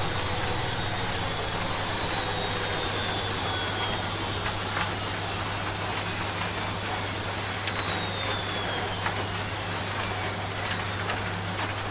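Washing machine spin cycle winding down: a high motor whine falls slowly and steadily in pitch as the drum slows, over a low steady hum. Rain patters beneath it.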